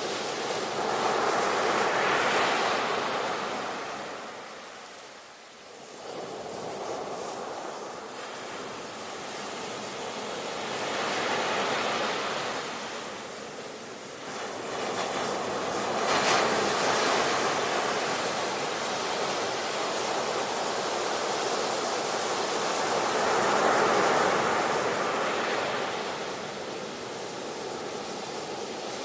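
Ocean surf: waves breaking and washing in, the rush of water swelling and fading in slow surges, about four across the stretch, with a short lull about five seconds in.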